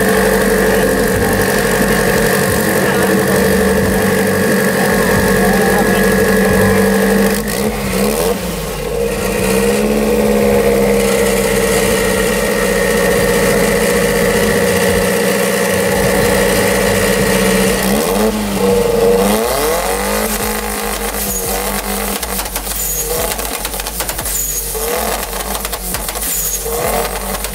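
Turbocharged Toyota Caldina engine revved and held steady at high revs. The revs dip and recover about eight seconds in, hold again, then fall away after about eighteen seconds. The engine settles lower and rougher, with a few short sharp bursts near the end.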